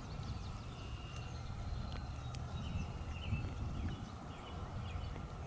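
Outdoor field ambience: a steady low rumble with faint, scattered short bird chirps throughout.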